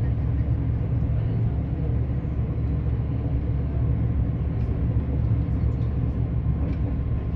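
Passenger train running steadily, a low, even rumble of wheels on track.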